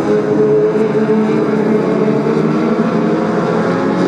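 Several Brisca F2 stock car engines running at racing revs, their overlapping notes rising and falling slightly as the cars circuit the track.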